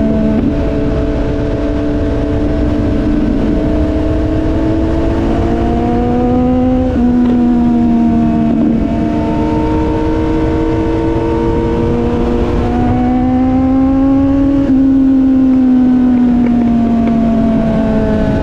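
Motorcycle engine under way, its pitch climbing steadily and then dropping in sudden steps several times as it shifts up, and easing down near the end. A steady low rumble of wind noise runs underneath.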